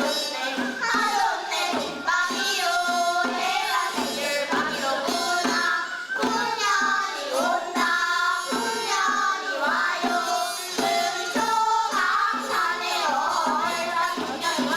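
Seodo sori folk singing: voices singing a Korean taryeong with pitch glides, over a regular drum beat.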